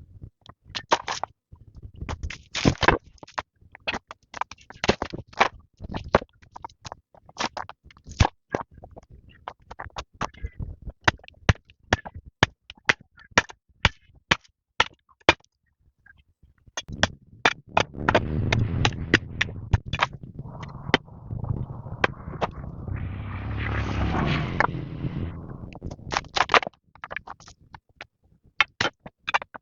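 Irregular sharp knocks and taps, many in quick succession, with a rough scraping stretch starting a little past halfway that grows louder before it stops.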